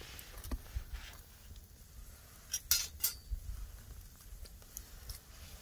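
Light clinks and clicks of oyster shells against the wire grill, a few scattered, with the loudest two close together a little past the middle.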